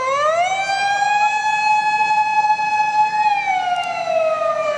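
Emergency vehicle wail siren. It rises quickly, holds a steady high note for about three seconds, then slides down and starts rising again near the end.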